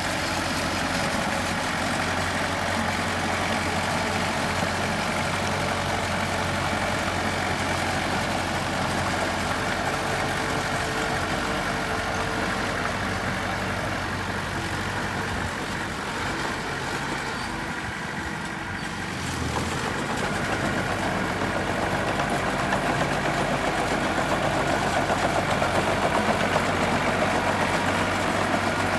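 Diesel engine of a construction machine running steadily, easing off briefly about two-thirds through and then working a little louder near the end.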